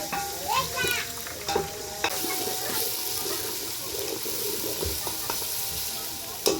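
Food frying in a pan with a steady sizzling hiss, broken by a few sharp knocks of a cooking utensil. A short rising squeak comes about half a second in.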